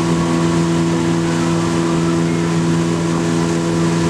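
Motorboat engine running at a steady pitch and speed over a broad hiss.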